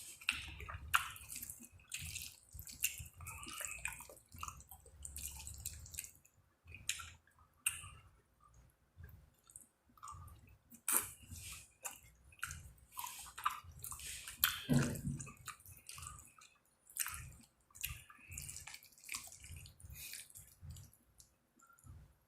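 Close-up eating sounds of chicken, lobster and shrimp alfredo: wet chewing, irregular smacks and mouth clicks. About fifteen seconds in there is one short sound falling in pitch.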